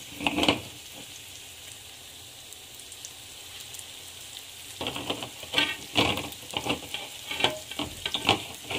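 Corn fritters sizzling steadily as they shallow-fry in hot oil. A few sharp utensil clicks come near the start, and from about five seconds in there is a run of irregular clicks and scrapes from a spoon working the batter.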